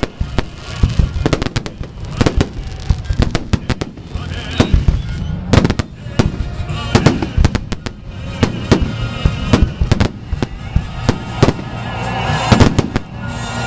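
Fireworks salute going off: a rapid, irregular string of sharp bangs and crackles, several a second, growing denser and louder near the end.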